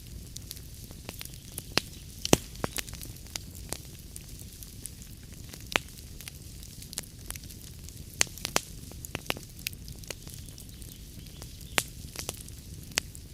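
Wood fire burning in a fireplace: a steady low rumble and hiss with irregular sharp crackles and pops from the logs, the loudest pop about two seconds in.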